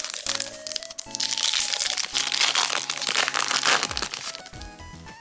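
Trading-card packaging crinkling and crackling as it is torn open, loudest through the middle few seconds, over steady background music.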